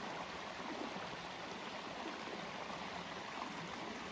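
Spring-fed creek water flowing and trickling steadily.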